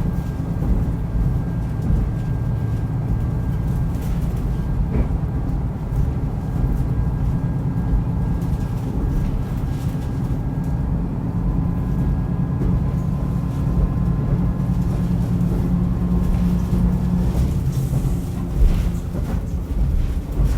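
Diesel railcar running on the Rumoi Main Line: a steady low engine and wheel drone with a faint high whine, and a few short clicks from the rails.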